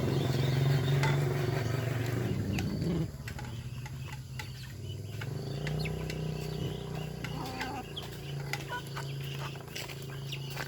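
A flock of ducks feeding, with many short clicks as they peck and dabble over a steady low drone that falls quieter about three seconds in.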